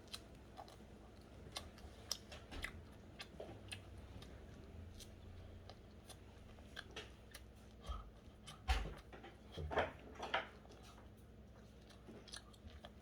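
Faint chewing and eating of bread: scattered small mouth clicks and smacks, with a few louder clusters of clicks about eight to ten seconds in.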